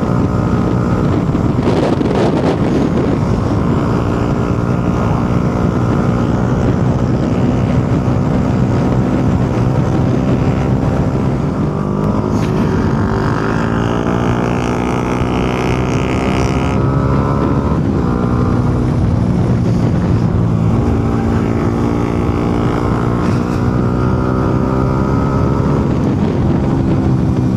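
Motorcycle engine running under way, its pitch rising and falling as the speed changes, with a sudden drop a little after midway. Wind rushes over the helmet-mounted microphone.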